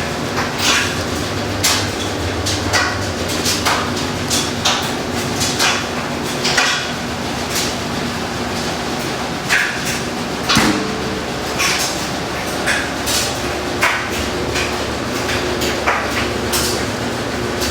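Huebsch (Speed Queen) commercial washing machine running, its motor humming steadily under frequent irregular knocks and clunks. About two-thirds of the way through, a sharp knock comes and the hum changes pitch.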